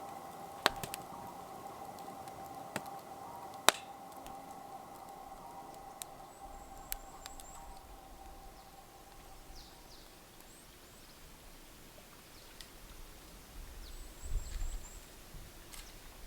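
A few sharp pops from a wood campfire crackling over a steady hum, then faint high birdsong chirps in the second half.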